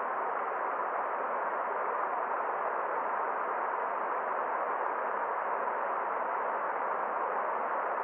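Forest stream water rushing in a steady, even hiss that does not change.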